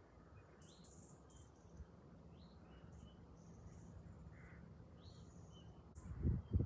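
Faint, scattered short high chirps of small birds over quiet outdoor background. Near the end a loud low rumbling noise comes in.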